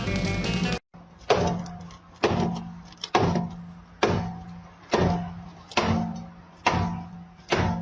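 Background music cuts off abruptly. Then come regular heavy knocks, about one every second, each fading briefly, over a steady low hum, like a machine working in a repeating stroke.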